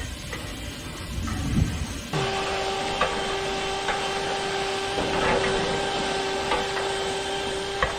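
A power drill starts about two seconds in and runs at a steady speed, turning a rotary brush rod through the dryer vent duct, with sharp knocks every second or so as the brush strikes the duct.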